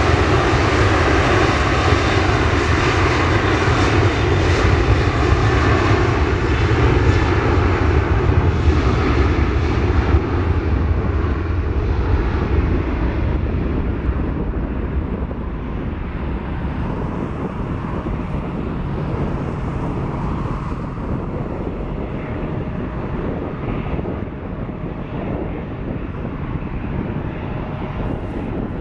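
Jet airliner's engines at takeoff power during departure, loud at first, then fading steadily over the back half as the aircraft climbs away, with the higher pitches dying out first.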